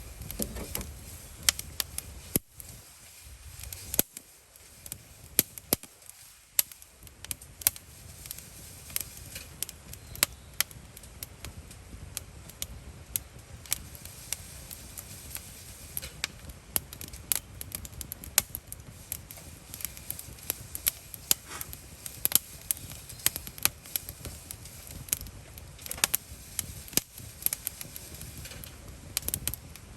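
Wood campfire crackling, with irregular sharp pops and snaps over a soft steady rumble of the burning fire.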